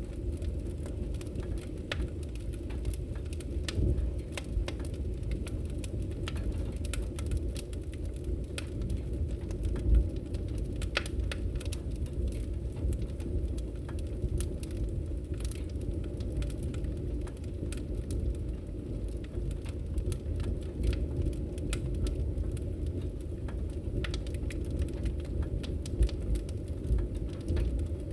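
Campfire burning: a steady low rumble of the flames with frequent sharp crackles and pops from the wood.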